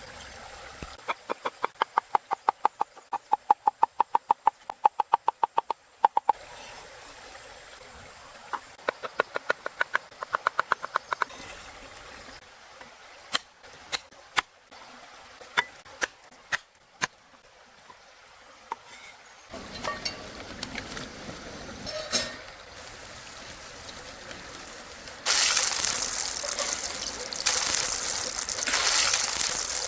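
Two quick runs of regular knocking, about six strokes a second, then a few separate clicks. Near the end a rushing sound of flowing water comes in and grows loud.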